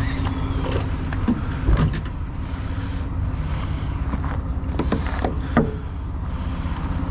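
Heavy diesel truck engine idling steadily, with a few sharp knocks from work on the truck about two, five and five and a half seconds in.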